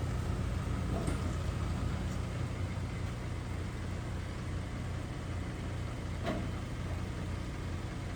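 A vehicle engine running steadily at idle, a low even rumble, with two faint brief sounds about a second in and again near six seconds.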